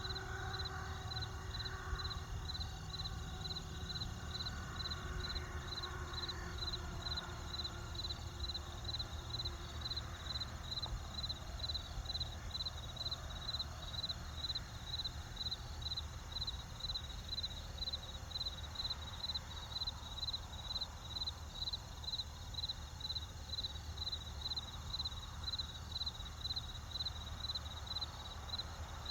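Crickets chirping in an even, unbroken rhythm of about one and a half high chirps a second, over a low steady rumble.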